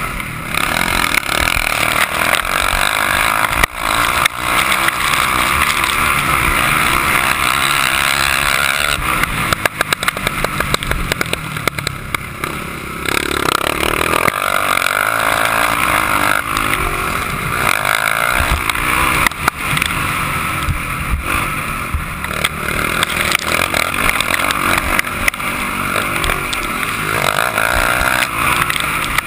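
Motocross bike engine running hard and revving up and down, the pitch rising and falling with the throttle.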